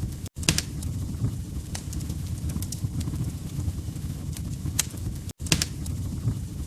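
Wood fire crackling: a steady low rumble with scattered sharp pops and snaps. The sound cuts out for an instant twice, about five seconds apart.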